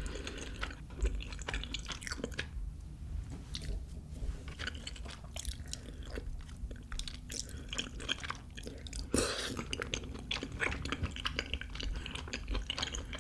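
Close-miked chewing of soft, chewy rice cakes and flat glass noodles in creamy rosé tteokbokki sauce, with many small wet mouth clicks and a brief louder burst about nine seconds in.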